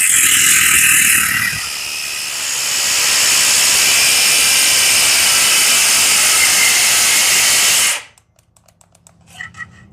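Cordless power tool cutting, a loud steady high-pitched grinding hiss that cuts off abruptly about eight seconds in as its battery dies, followed by a few faint clicks.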